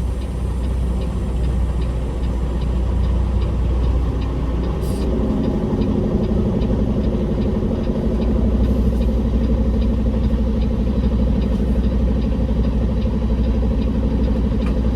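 Peterbilt semi truck's diesel engine running at low speed as the rig creeps forward through a tight turn. A brief hiss comes about five seconds in, after which the engine note picks up a little and holds steady.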